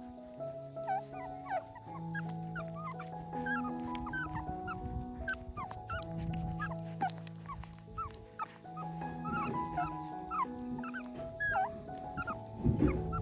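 Puppies whimpering and squeaking in many short, high cries that bend up and down, over soft background music with long held notes. A brief louder noise comes near the end.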